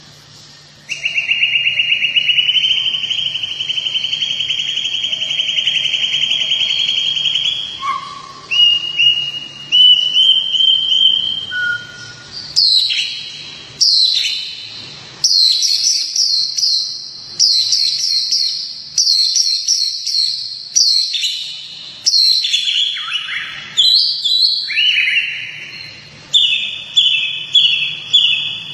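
Songbird singing: a long buzzing trill of about seven seconds, then a run of short, sharp whistled phrases repeated in quick succession.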